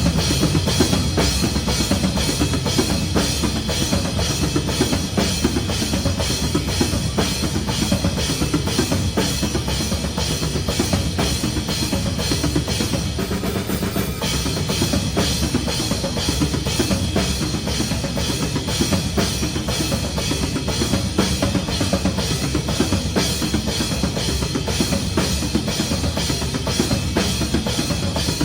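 Metalcore band playing live, heard from a drum-kit camera: fast, steady bass drum and snare strikes with cymbals dominate over the guitars.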